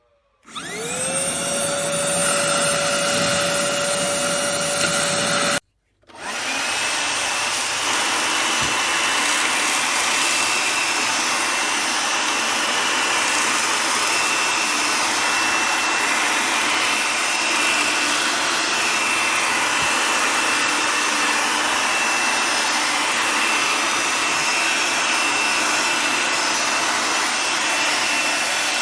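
HOMEKANE cordless handheld vacuum cleaner switching on, its motor spinning up with a rising whine and running steadily. It stops for a moment at about six seconds, then starts again and runs on steadily with a high-pitched whine and a rush of air.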